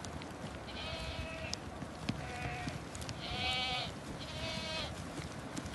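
Livestock bleating: four wavering calls, each under a second, about a second apart, over a steady hiss.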